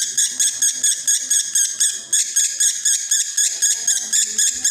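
Male lovebird in breeding condition singing a rapid, continuous 'konslet' chatter, a fast run of sharp, high-pitched chirps at about six a second.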